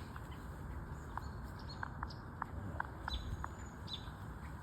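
A flock of American robins calling: short sharp chirps, about two or three a second, scattered through the tree.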